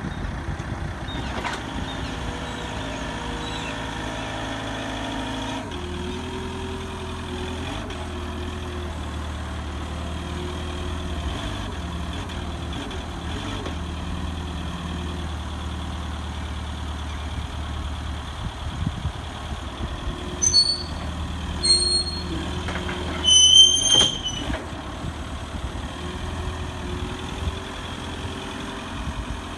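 Truck engine running steadily, with a few brief high-pitched squeals about two-thirds of the way through, the last the loudest.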